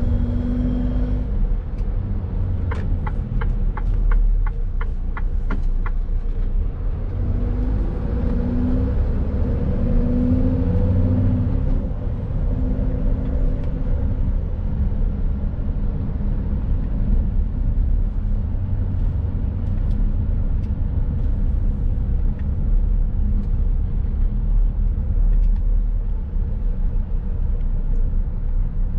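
Mercedes-Benz Actros diesel truck on the move: a steady low engine and road rumble, with a quick run of evenly spaced ticks a few seconds in.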